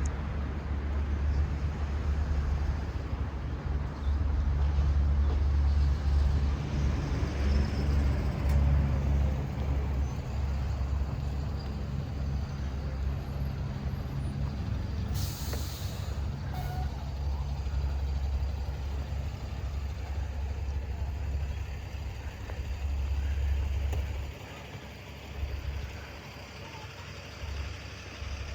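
A heavy road vehicle's engine, a bus or truck, running close by as a steady low rumble, with a short sharp hiss a little past halfway. The rumble drops away about four seconds before the end.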